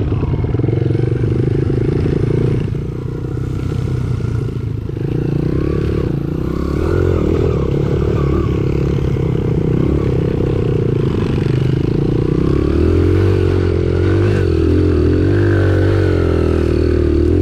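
Dirt bike engine running under way, its revs rising and falling with the throttle and easing off briefly a few seconds in.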